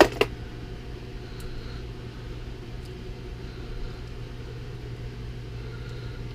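Two sharp clicks about a quarter second apart, then a steady low hum.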